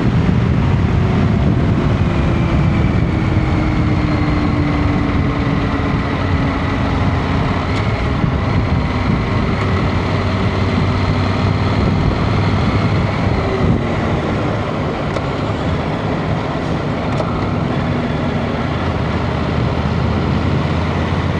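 Motorcycle on the move: a steady engine drone under rushing wind noise, the engine note slowly dropping in pitch over the first several seconds.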